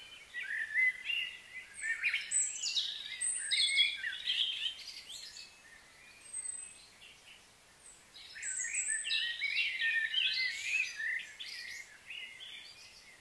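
Songbirds singing, with quick, high twittering and chirping notes in two busy bouts and a quieter lull in between.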